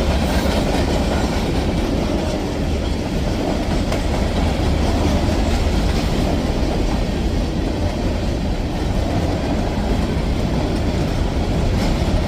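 CSX grain train of hopper cars rolling past, a steady rumble of steel wheels on the rails.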